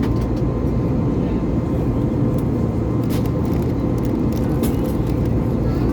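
Airbus A320neo's CFM LEAP-1A turbofans heard from inside the cabin: a steady, dense rumble with a faint steady whine above it and a few light cabin rattles.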